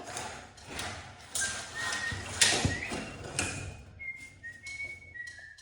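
A person whistling a tune, held notes stepping up and down in pitch, over clattering and knocking of work in the first few seconds.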